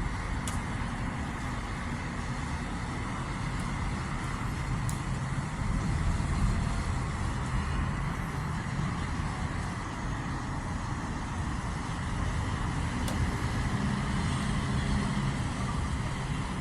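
Steady road traffic noise from the city streets, an even rumble with no single vehicle standing out.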